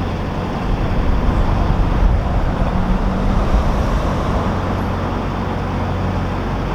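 Narrowboat engine running steadily while the boat cruises, a low hum with a rougher rumble that grows louder for a few seconds in the middle.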